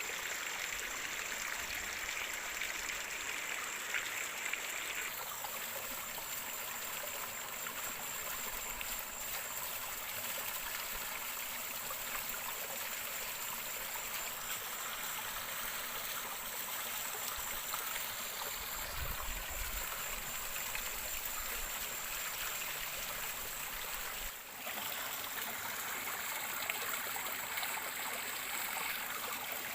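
Steady rush of running water, like a stream, with a thin steady high hiss over it.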